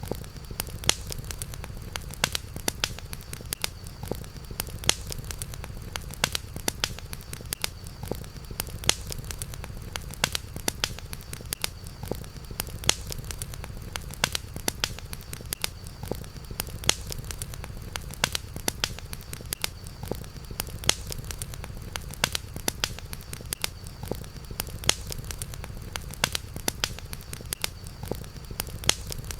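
Campfire crackling: frequent irregular sharp pops and snaps over a low steady rumble, with a faint steady high-pitched tone in the background.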